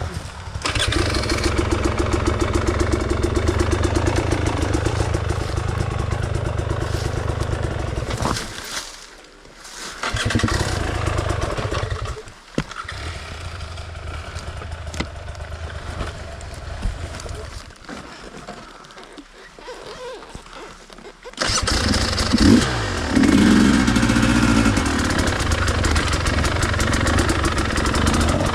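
Enduro dirt bike engine running under throttle off-road, rising and falling with the rider's throttle: loud for the first several seconds, quieter with short drops through the middle, and loud again near the end.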